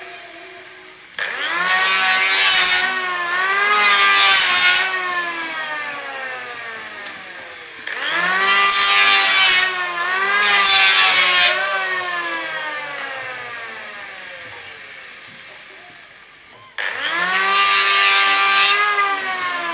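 Electric wood planer shaving wooden strips: the motor starts three times, each time rising quickly in pitch and then slowly winding down. While it runs, short loud bursts of cutting noise mark the passes through the wood, two in each of the first two runs and one in the last.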